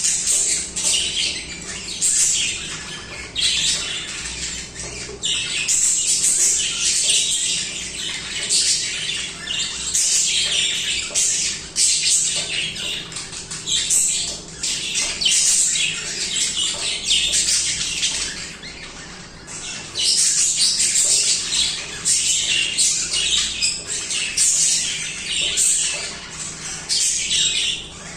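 Budgerigars chattering and warbling continuously, a dense overlapping stream of quick chirps and squawks with a short lull about two-thirds of the way through.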